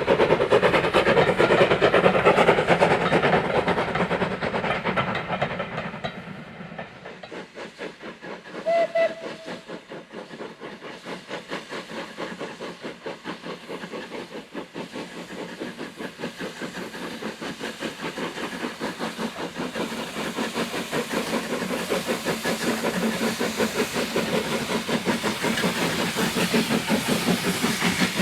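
Steam locomotive working hard, its exhaust beating in a quick regular rhythm. The beats are loud at first, fade away after about five seconds, then build up again toward the end. A short steam whistle blast sounds about nine seconds in.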